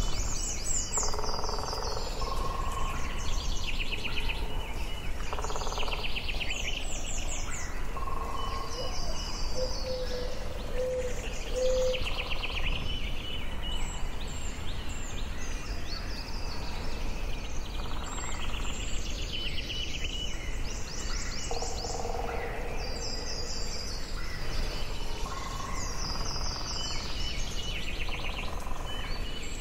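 Forest birdsong: several birds singing and calling, with quick repeated trills and chirps overlapping throughout and a few lower whistled notes, over a steady low background rumble.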